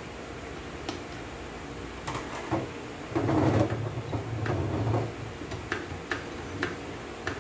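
Scattered light clicks and clinks of automatic transmission parts being handled and fitted, with a louder stretch of handling noise about three to five seconds in.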